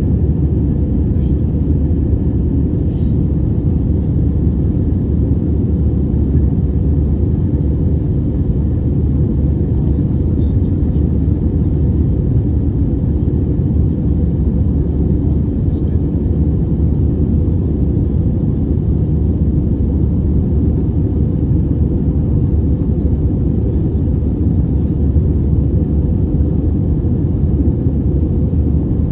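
Airbus A320 cabin noise in the climb after take-off: a steady, deep roar of engines and airflow heard from inside the cabin.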